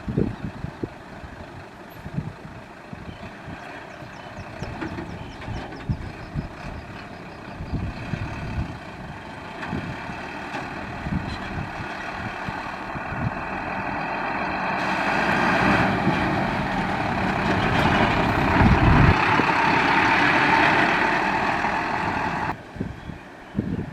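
Heavy dump truck at work: the engine runs under scattered knocks and clunks. About halfway through, a rush of noise swells and grows louder, then cuts off suddenly near the end.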